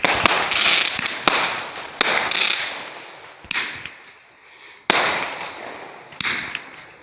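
Fireworks going off: about six sharp bangs in seven seconds, each followed by a fading crackle and hiss.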